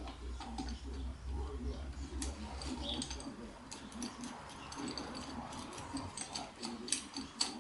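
Metal hand tools and a bearing puller clicking and ticking against the gearbox mainshaft, with a quick ratchet-like run of clicks in the second half. A low hum stops about three seconds in.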